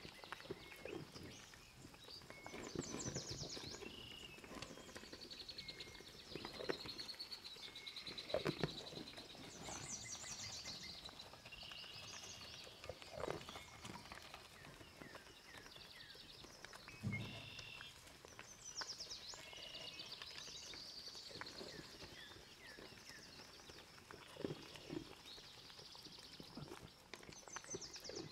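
Farm and meadow ambience: small birds chirping and singing throughout, with scattered knocks and thuds now and then.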